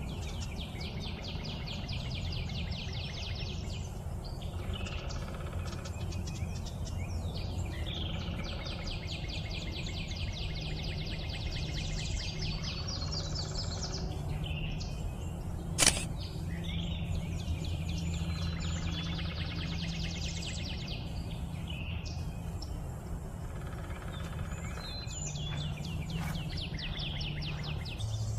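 A songbird singing long, fast trills of rapid notes, each about three seconds long and ending in rising sweeps, repeated every few seconds over a steady low background rumble. A single sharp click comes a little past the halfway point.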